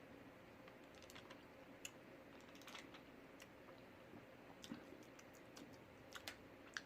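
Near silence broken by scattered faint clicks and light taps, a few more in quick succession near the end, from handling food and utensils at the table.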